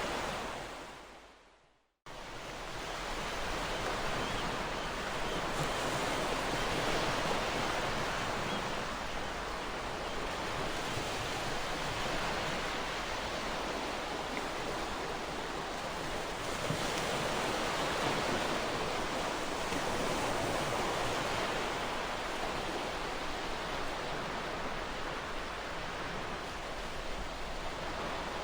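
Ocean surf: a steady wash of breaking waves rising and falling in slow swells. The sound fades to silence over the first two seconds, then cuts back in abruptly and runs on.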